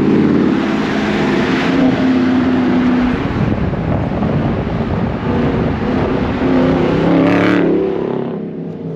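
Car engine running loudly and revving, with a brief sharp burst of noise near the end.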